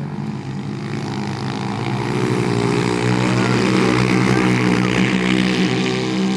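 Small four-stroke pit bike engines running on a flat track, their pitch wavering as the riders work the throttle; the sound builds over the first few seconds, stays loudest through the middle and eases a little near the end, as bikes pass close by.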